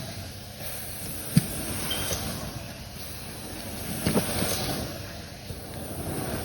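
Rustling and scraping as a piece of carpet is cut and pulled up by hand, with a sharp knock about a second and a half in and a few more knocks about four seconds in.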